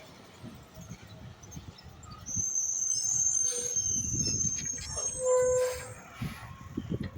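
Garbage truck working, its engine rumbling low. A loud, high metallic squeal starts about two seconds in and lasts about three seconds, with a lower tone near its end.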